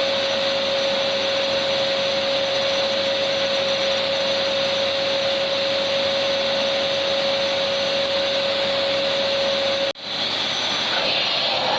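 Electric vacuum cleaner running steadily, a constant motor whine over a rushing air noise. About ten seconds in the sound cuts out for an instant and comes straight back, the whine weaker for a moment.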